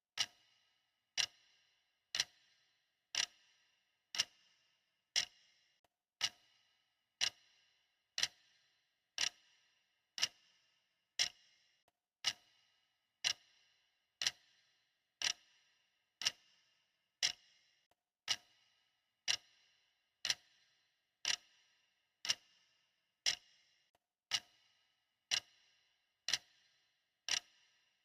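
Clock ticking steadily, about one sharp tick a second, each with a brief ring.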